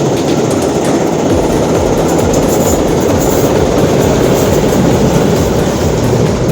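Passenger train hauled by a TEM18DM diesel locomotive passing at speed: loud, steady running noise with wheels clattering over the rail joints.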